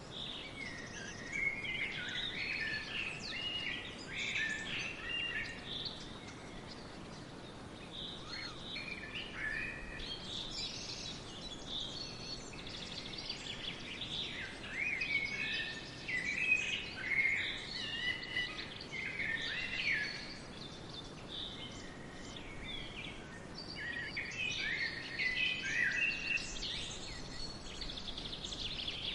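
Several songbirds chirping and singing in overlapping short phrases over a steady background hiss, busiest near the start, in the middle and near the end.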